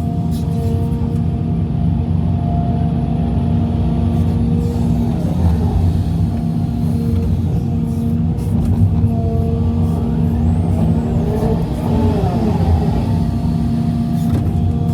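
Hitachi EX350LC hydraulic excavator's diesel engine running steadily under digging and loading work. Its pitch rises and falls around five seconds in, and again from about ten to thirteen seconds, as the hydraulics take load.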